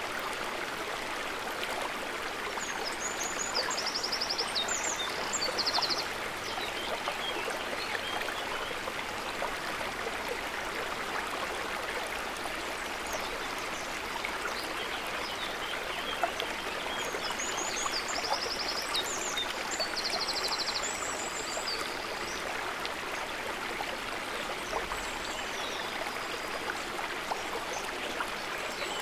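River water running steadily, an even rushing sound. Two short spells of high chirping trills sound over it, about three seconds in and again about eighteen seconds in.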